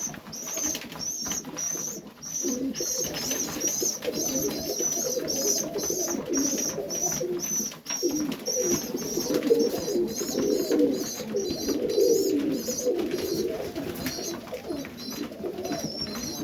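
Domestic pigeons cooing in a loft, several birds overlapping continuously. A high, thin chirp repeats about twice a second over the coos.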